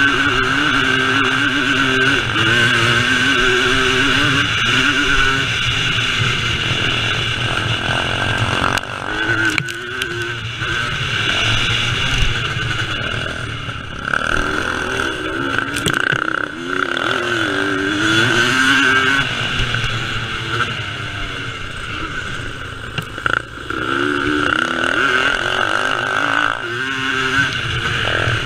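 Vintage motocross motorcycle engines racing, revving up and easing off again and again.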